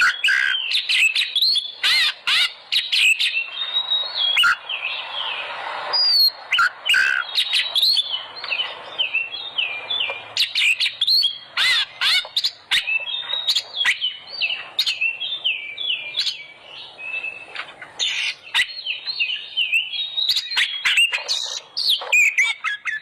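Oriental magpie-robin (kacer) singing loud and without pause: a fast, varied stream of sliding whistles and sharp chirps.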